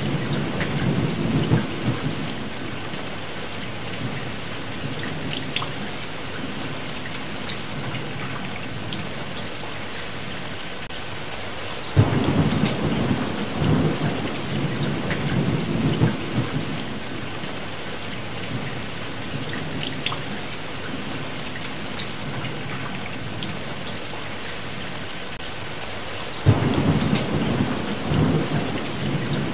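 Steady heavy rain with rolling thunder: one rumble fades out just after the start, a new roll breaks suddenly about twelve seconds in, and another near the end.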